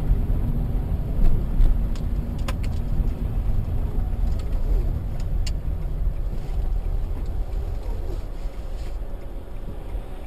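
Car on the road: a steady low rumble of engine and tyre noise, easing slightly towards the end, with a few sharp clicks in the first half.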